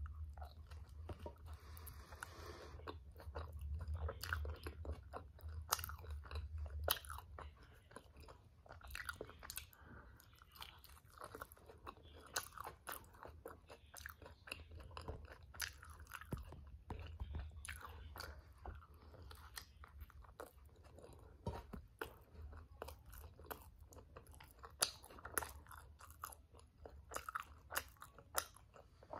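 Close-miked chewing and biting of a toasted black bean and vegetable tortilla wrap, a steady run of many short, crisp crunches.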